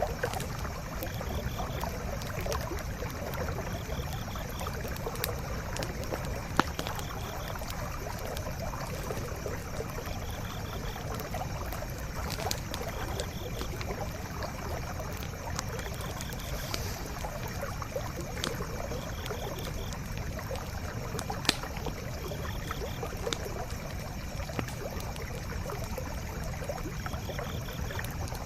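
A stream running steadily, with occasional sharp crackles and pops from a burning wood campfire, two of them standing out clearly. A faint high chirp recurs every second or two.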